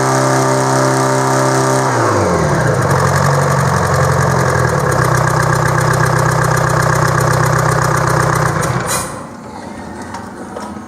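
Detroit Diesel 4-53 two-stroke four-cylinder diesel engine running at steady speed. Its revs fall about two seconds in, it runs steadily at the lower speed, and about nine seconds in it cuts out and the sound drops sharply.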